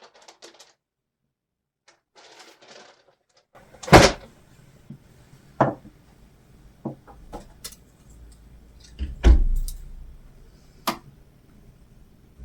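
Dice being drawn and set down on a tabletop: a short rustle, then five or six separate knocks, loudest about four seconds in and again a little after nine seconds.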